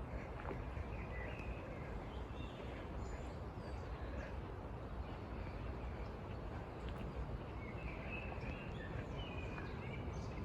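Small songbirds chirping in short, scattered calls, a few near the start and more in the last few seconds, over a steady low background rumble.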